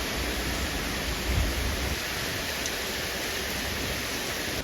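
Hurricane rain pouring down with wind, a steady, even rush.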